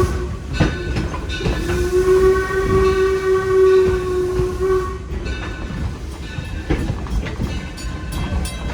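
Steam locomotive's whistle blowing one long, steady blast of about three and a half seconds, starting about a second and a half in, over the low rumble and clatter of the moving train on the rails.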